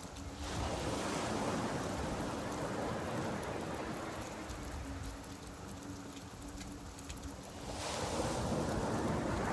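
Ocean surf under steady rain: the noise of rain runs on throughout while waves wash in, swelling about half a second in and again near the end.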